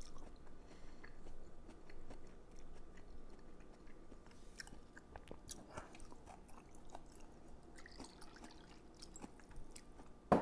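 A person chewing food quietly, with scattered small clicks and then one sharp click near the end.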